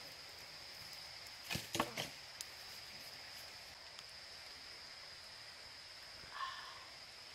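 A steady, high-pitched insect drone that holds one pitch throughout. A quick cluster of sharp knocks comes about a second and a half in, and a short pitched sound comes near the end.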